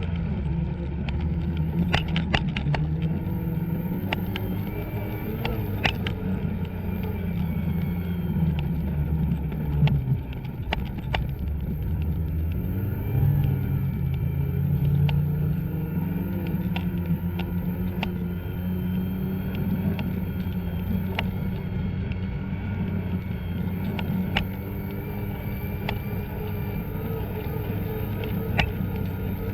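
Two-stroke snowmobile engine running under throttle, its pitch rising and falling as the rider works it, with scattered sharp clicks and knocks.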